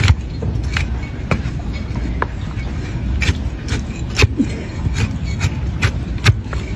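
Hoof knife paring a donkey's hoof horn: a run of sharp cutting clicks, irregular and about two a second, over a steady low rumble.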